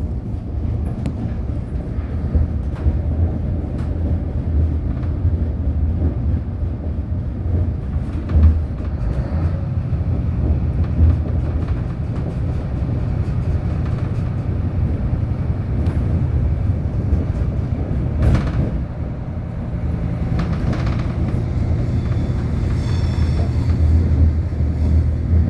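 Suburban metro train running on the rails, heard from inside a carriage: a steady low rumble with a few sharp clicks and knocks from the track, the most distinct about eight seconds in and about eighteen seconds in.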